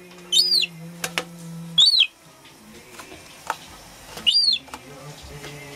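Young gull chick giving short, high, thin calls that rise and fall, three times about two seconds apart, with a few sharp clicks in between.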